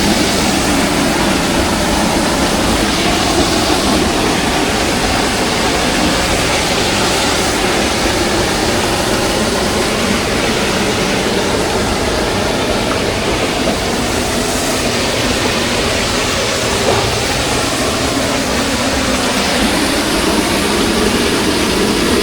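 Steady, loud rush of flowing water from a river and waterfall.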